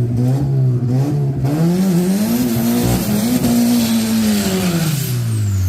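Turbocharged Hyundai Accent's four-cylinder engine under hard acceleration. Its note holds at first, climbs over the next second or so, holds high, then falls away over the last couple of seconds.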